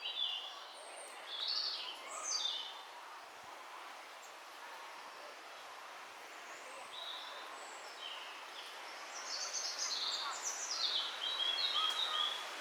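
Small birds singing over a steady background hiss: a few short high chirping phrases in the first seconds, then a longer run of quick descending notes from about nine seconds in.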